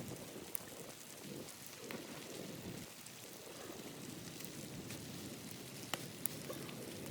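Blizzard wind gusting against a hot tent, a low rushing noise that swells and eases, with a few scattered sharp clicks, two of them close together near the end.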